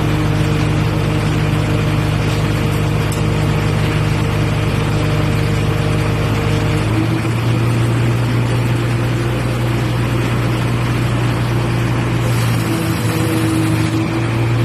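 Boom crane truck's engine running steadily under test, its note shifting slightly to a new steady pitch about seven seconds in.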